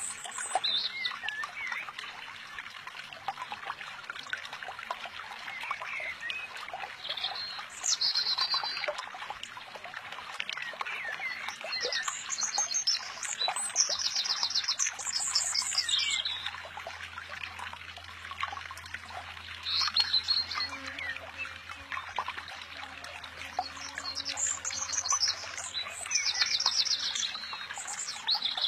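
Birds chirping in short, high trills that come back every few seconds, over the steady trickle of a shallow stream.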